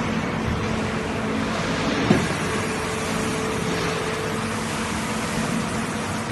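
Automatic flaskless green sand moulding machine running: a steady mechanical hum with faint held tones, and one sharp knock about two seconds in.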